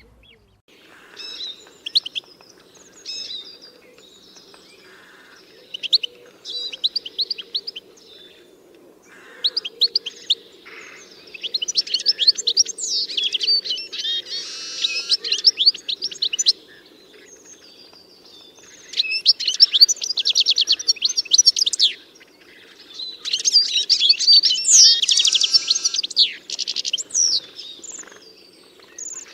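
Songbirds chirping and singing in phrases of quick high chirps and rapid trills, with short pauses between them. The longest, loudest runs come about halfway through and again near the end. A faint steady low hum lies underneath.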